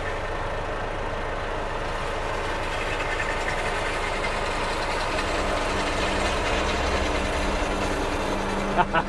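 Tractor engine running steadily, its low rumble growing heavier from about halfway through.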